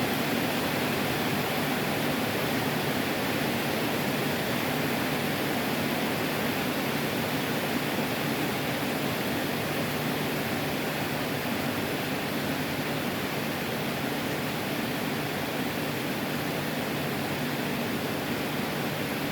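Heavy tropical rain pouring down, a steady even rush of noise.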